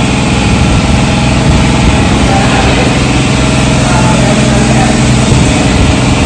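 Motorcycle engine running at a steady speed, with a steady rushing noise over it.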